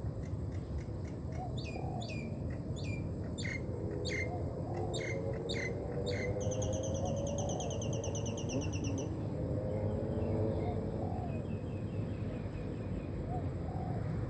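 Small songbird calling: a run of quick, sharp, high chirps over the first six seconds, then a fast buzzy trill lasting a couple of seconds, over a steady low rumble.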